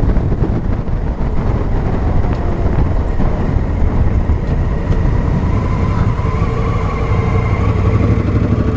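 Honda Africa Twin CRF1000L parallel-twin motorcycle engine running while riding on the road, a steady, loud rumble.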